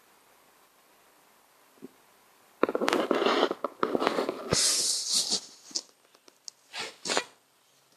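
Rustling and scuffing, loud and dense for about three seconds starting roughly a third of the way in, followed by a few short brushes.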